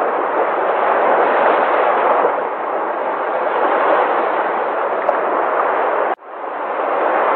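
Sea waves surging and breaking in a steady rushing roar. About six seconds in the sound cuts out abruptly and fades back up within a second, like a splice in a looped recording.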